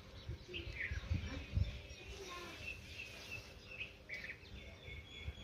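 Small birds chirping and whistling in short high notes, scattered through, with a quick run of notes past the middle. A few low rumbles on the microphone come about a second in.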